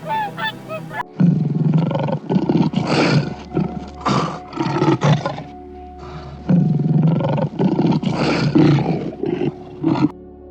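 A large animal roaring and growling in repeated loud calls, over background music. A goose honks briefly at the start.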